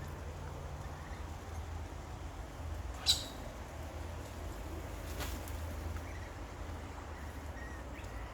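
Garden birds chirping: one sharp, loud chirp about three seconds in, a fainter one around five seconds, and a few faint calls near the end, over a low steady rumble.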